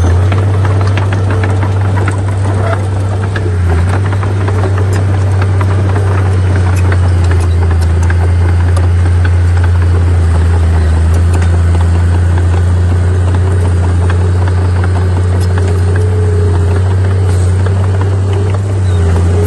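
Heavy diesel engine of earthmoving machinery running steadily, with a deep continuous hum and scattered small clicks and rattles.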